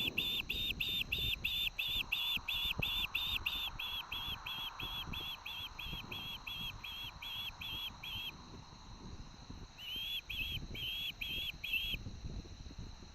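Osprey giving a long series of high whistled call notes, about three a second, that pauses briefly and then resumes for half a dozen more before stopping. Under it, high wind buffets the microphone with a low, gusty rumble.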